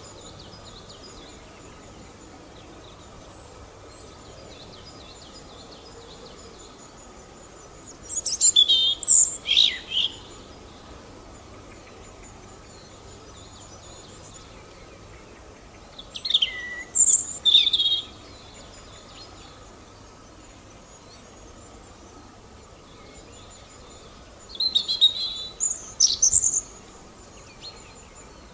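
Birdsong: a bird sings a short phrase of quick sweeping notes three times, about eight seconds apart, over fainter, steady high chirping from other birds and a low background hiss.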